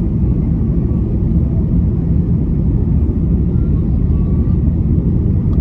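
Steady low rumble of Rolls-Royce Trent 700 turbofan engines and airflow inside the cabin of an Airbus A330-300 on approach.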